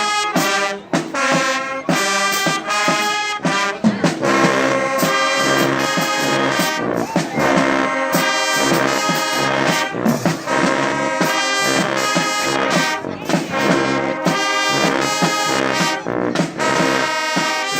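High school band playing a loud, brass-heavy tune, trombones and trumpets in punchy rhythmic phrases with drum hits.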